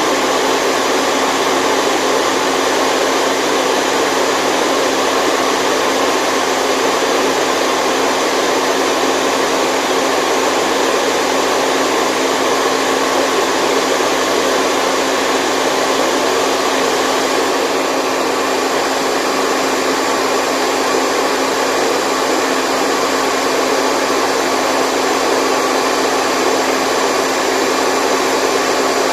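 Steady white noise of the kind played to lull a baby to sleep: an even rushing hiss with little bass and a faint underlying hum.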